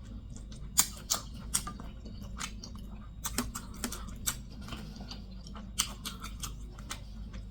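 Close-miked chewing with wet lip smacks: a dozen or so sharp, irregular smacks and clicks from a mouth eating.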